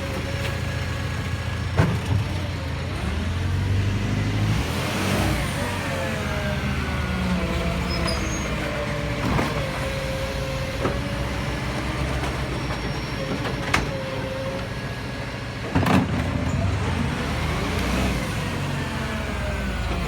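Garbage truck engine running, revving up twice, with a few sharp bangs, the loudest near the end.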